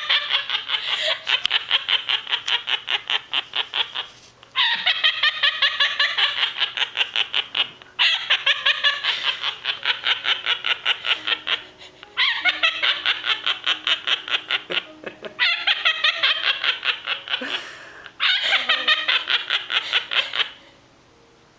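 A parrot imitating human laughter: about six long bouts of rapid, high-pitched 'ha-ha-ha' pulses, each a few seconds long with short breaks between, stopping near the end.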